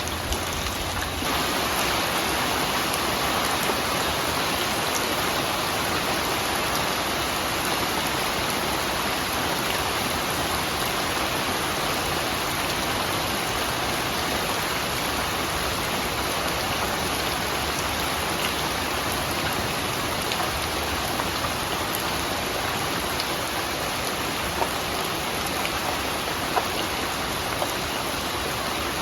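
Steady, dense rainfall hissing evenly, with a few individual drops ticking now and then.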